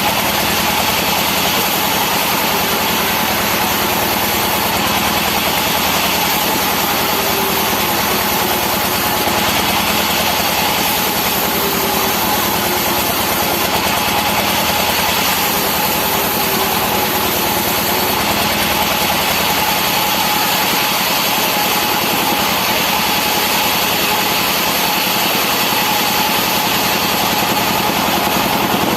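Sawmill machinery running steadily while rubberwood-type logs are sawn into pallet stock, a constant machine drone with a steady high whine and no pauses.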